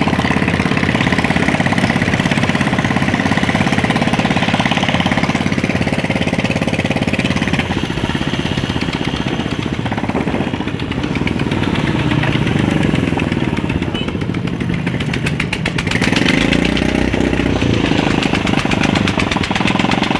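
A motor vehicle engine running steadily, a little quieter for a while midway and louder again from about sixteen seconds in.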